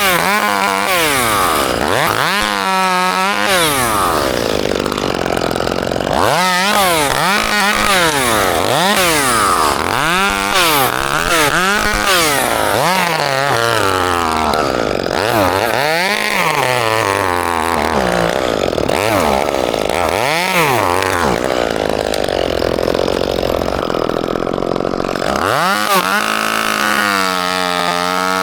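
Two-stroke chainsaw running hard, its engine revving up and dropping back again and again, then holding a steady pitch near the end.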